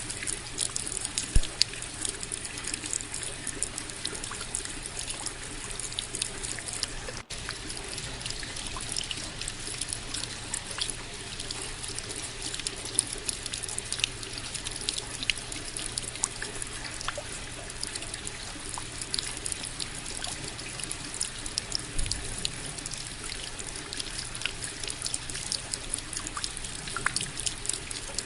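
Steady rain falling, heard as an even wash dotted with many separate drop hits, with a momentary dropout about seven seconds in.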